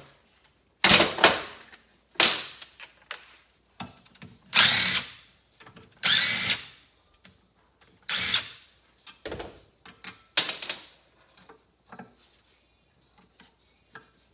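Power drill/driver running in short bursts to back out the two Phillips screws holding the oil relief valve on the bottom of a motorcycle engine case.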